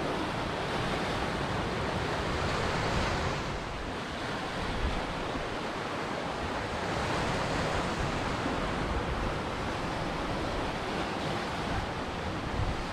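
Ocean surf: waves breaking and washing ashore in a continuous rush that swells and eases, with a brief lull about four seconds in.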